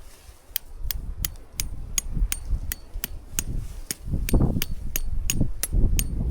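A steady series of sharp knocks, about three a second, with low thuds and rumble growing louder in the second half.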